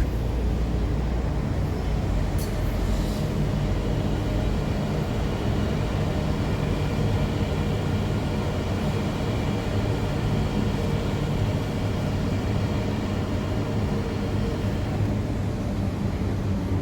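Metro train running at steady speed: a continuous rumble with several steady motor hum tones above it. A couple of faint clicks come about two to three seconds in.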